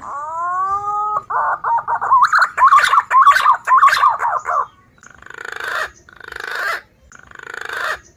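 Green pigeon (punai) calls played as a bird-catching lure. A whistled note rises and holds for about a second, then runs into a quick, wavering, warbled whistle for about three seconds, followed by four harsh, rasping notes about a second apart.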